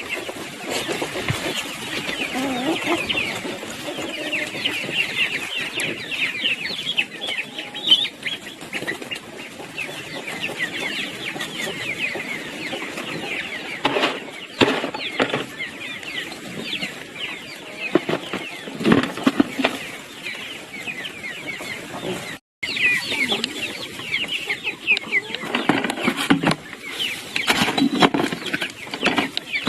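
Chickens clucking and peeping continually, with a few knocks now and then.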